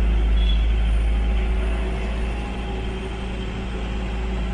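Engine and road noise of a moving bus heard from inside the cabin: a steady, loud low rumble with an engine hum, easing off slightly a couple of seconds in.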